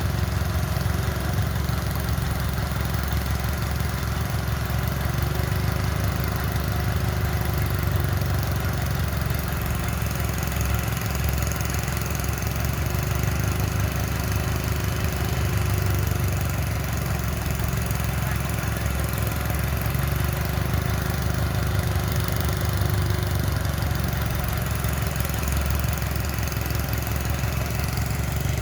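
Engine of heavy machinery running steadily at an even speed, with a constant low drone.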